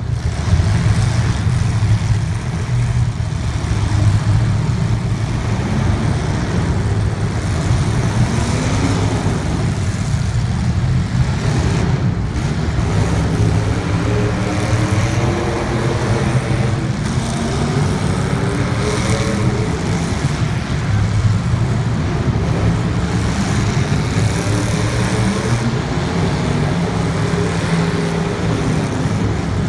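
Racing engines running hard as a steady low drone, their pitch rising and falling over and over as they rev up and back off.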